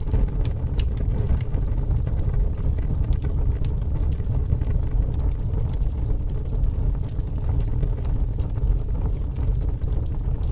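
Fire burning: a steady low rumble of flames with scattered small crackles and pops throughout.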